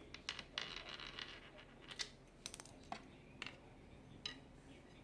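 Irregular light scratches and clicks, with a short scratchy rustle lasting under a second about half a second in.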